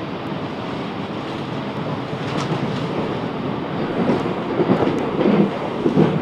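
Class 707 Desiro electric train running between stations, heard from on board: a steady rumble of wheels on rail with a few sharp clicks, the rumble growing louder in the second half.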